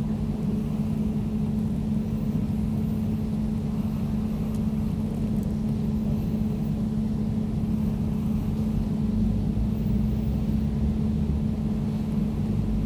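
Air conditioner running steadily: an even hum over a low rumble.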